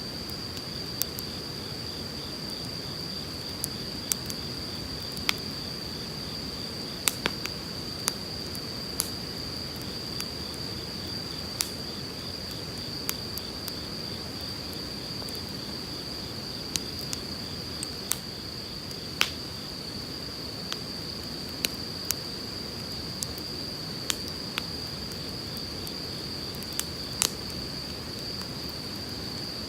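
Burning firewood crackling, with sharp pops roughly every second, over the steady rush of a flowing river. A continuous high insect trill runs throughout, with a second, fainter pulsing trill below it for much of the time.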